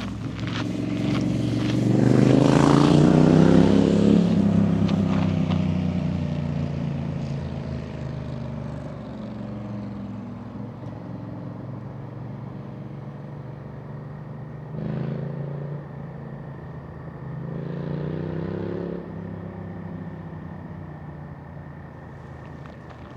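A motor vehicle passing close by: its engine swells to its loudest a couple of seconds in, shifts in pitch as it goes past, then fades slowly. Later the engine note swells briefly twice more.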